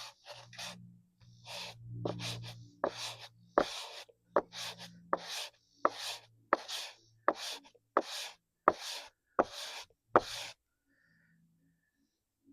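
Sandpaper rubbed by hand over a part in steady, rhythmic scratchy strokes, about fourteen in ten seconds, each starting with a sharp click.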